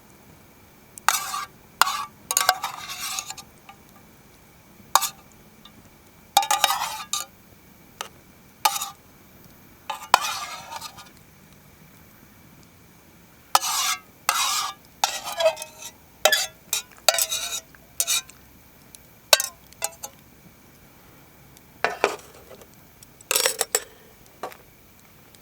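A metal utensil scraping and clinking in a metal camp cooking pot, in about twenty short irregular strokes with pauses between them, as food is stirred or scraped.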